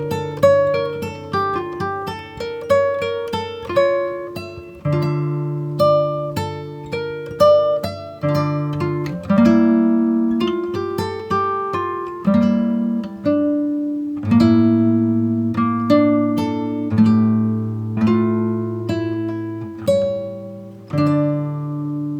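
Background music: an acoustic guitar picking a steady run of single notes over lower notes, each note ringing and fading away.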